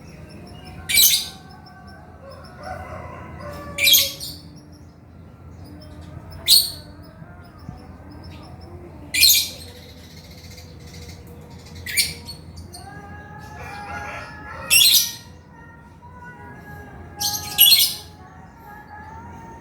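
Male lovebird calling in active song: short, shrill, piercing chirps repeated about every two to three seconds, with softer whistled notes between them.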